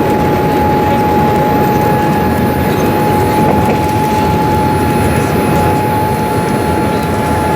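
Steady cabin noise inside a Boeing 787-8 airliner in flight: an even rush of airflow and engine sound with a constant high-pitched hum running through it.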